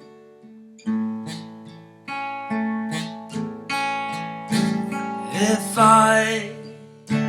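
Acoustic guitar strumming chords in an instrumental break of a slow song, a new strum every second or so. A short wavering note sounds over the guitar about six seconds in.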